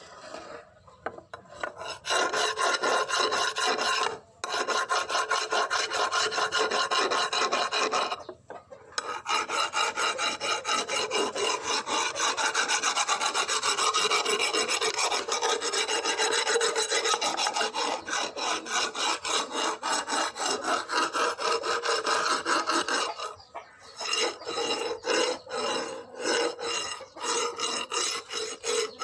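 Rapid, continuous abrasive rasping of a tool worked against the piece being restored. It stops briefly twice early on, pauses about 23 seconds in, then resumes in shorter, choppier strokes.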